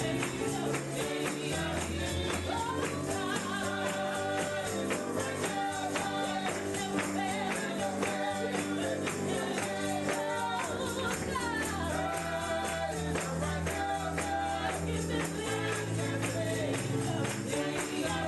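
Gospel church music: a tambourine keeping a fast, steady beat over sustained bass and keyboard notes, with singing voices rising and falling above.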